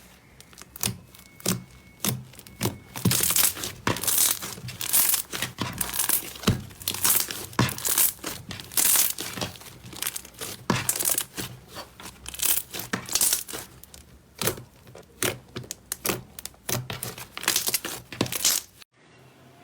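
Slime being handled, squeezed and stretched, with dense, irregular sharp crackles that stop suddenly near the end.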